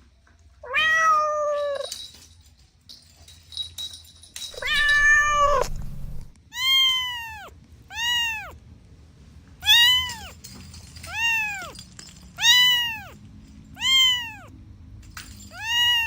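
Kitten meowing repeatedly: two longer, drawn-out meows, then a steady run of seven short high meows, each rising and falling in pitch, about one every second and a half.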